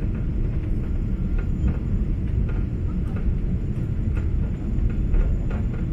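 Steady low rumble of airliner cabin noise inside a Boeing 777-200 in flight: engine and airflow noise heard through the cabin.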